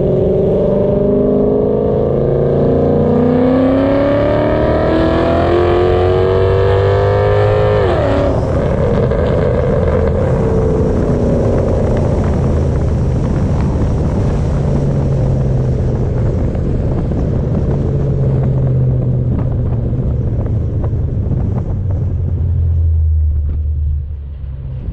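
Mercedes-Benz CLK500's V8 engine accelerating, its pitch climbing steadily for about eight seconds before dropping sharply. It then settles into a steady low drone with road noise while the car cruises, easing off near the end.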